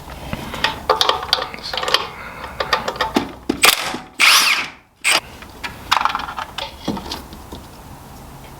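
Hand tool clicking in short, irregular runs, working loose an engine mount bolt, with a brief loud rush of noise about four seconds in.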